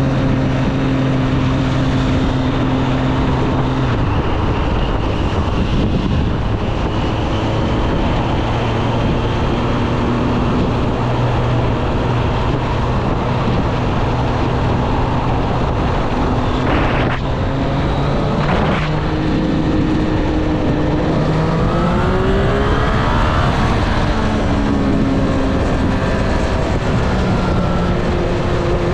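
2024 Triumph Street Triple 765 RS's inline three-cylinder engine running on the road, mostly at steady revs under a steady rush of wind and road noise. Two short sharp sounds come near the middle, then the engine revs rise over a few seconds and settle again.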